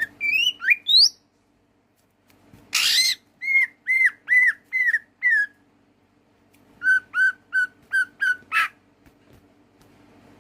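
Green leafbird (cucak ijo) singing: a few rising whistles, a harsh rasping call, then a run of about six clear arched whistles followed by a second, lower run of about six, closed by another harsh note. A faint steady hum lies underneath.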